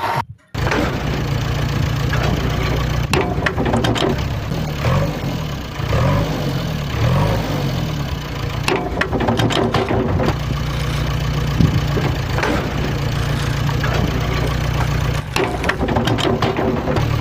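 Tractor engine sound idling steadily, with a few rises and falls in pitch partway through.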